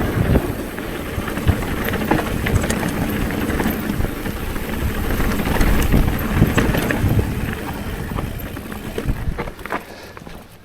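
A bicycle ridden fast over a rough trail: rushing wind on the microphone, with rattling and knocking of the bike over bumps. It dies down about nine seconds in as the bike slows.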